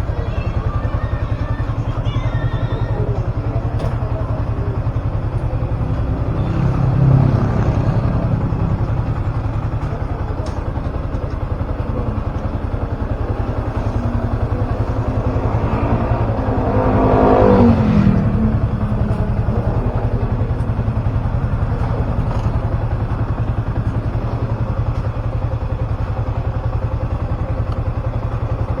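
Motorcycle engine running steadily while riding. There are two louder swells, the bigger one about two-thirds of the way through, rising and then falling in pitch.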